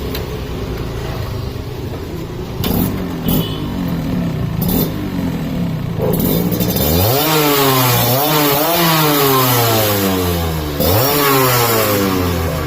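Yamaha RX two-stroke motorcycle with expansion-chamber exhausts idling unevenly, then revved repeatedly from about halfway through, the engine note climbing and dropping in quick blips several times.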